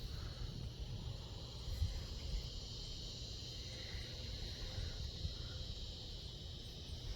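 Steady high-pitched insect drone, typical of crickets or cicadas, over a low rumble.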